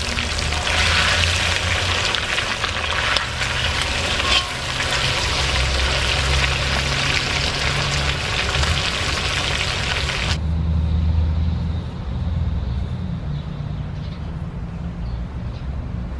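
Chicken pieces frying in hot oil in a wok, a steady sizzle that cuts off suddenly about ten seconds in. A low steady rumble continues underneath and after it.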